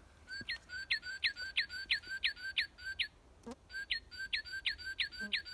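Northern cardinal singing: a series of clear whistles, each sliding down in pitch and repeated about three times a second, then after a short pause about three seconds in a second matching series.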